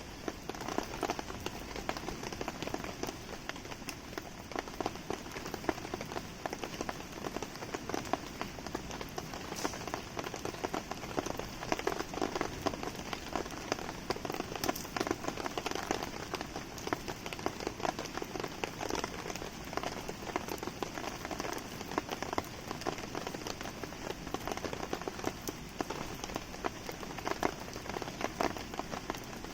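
Steady rain falling, full of small drop hits, together with a wood campfire burning in the rain.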